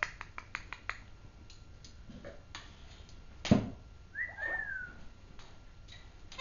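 Pet parrot giving a short whistle that slides down in pitch, amid a quick run of small clicks near the start and one sharp knock a little before the whistle.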